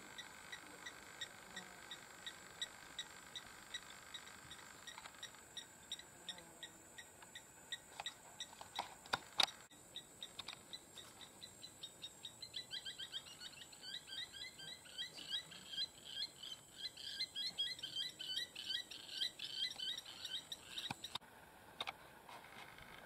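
Birds calling: a short note repeated about once or twice a second, then a busy run of chirping through the second half. A few sharp clicks come about eight to nine and a half seconds in.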